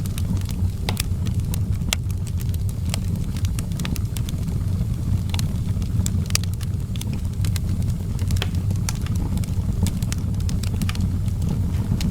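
Fire in an outdoor fireplace crackling: irregular sharp pops and snaps, several a second, over a steady low rumble.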